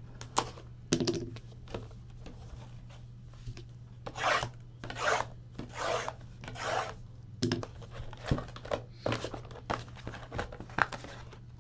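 Trading cards and their packaging being handled: cards sliding and rubbing against each other in four rasping swipes in the middle, with scattered clicks and taps before and after, over a steady low electrical hum.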